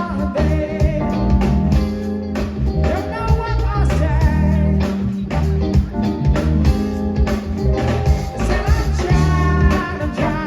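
Live blues-funk band playing: guitar over bass and drums with a steady beat.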